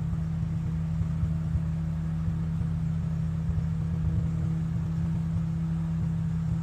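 An engine running steadily with a low, even hum and rumble, as heard from inside a vehicle.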